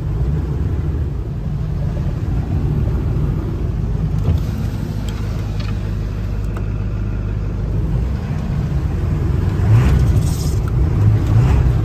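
Ford 7.3 Powerstroke V8 turbodiesel truck running, a steady low rumble that grows louder for the last couple of seconds.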